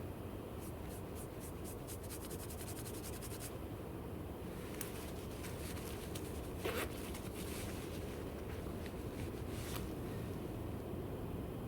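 Hands scraping and rubbing soil off a freshly dug coin. A quick run of ticks comes in the first few seconds, then scattered scrapes, one louder than the rest near the middle.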